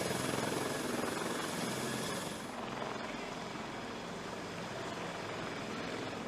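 Helicopter running, a steady rushing noise. A high thin whine fades out about two and a half seconds in, and the sound then eases slightly.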